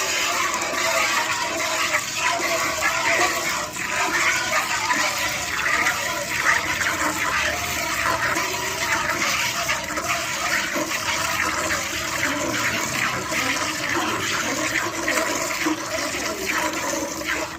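Cow being milked by hand: quick jets of milk squirting and splashing into a pail, one after another, without letup.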